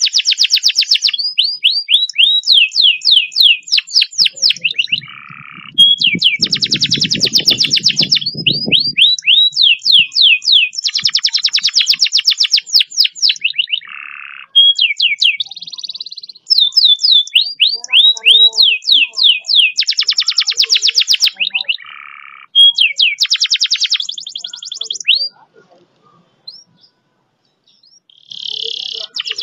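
Domestic canary singing a long, fast rolling song: rapid trills and runs of quick downward-sweeping notes, broken by short pauses. A low rumble sits under the song about six to nine seconds in. The song drops away about 25 seconds in, and a new phrase starts near the end.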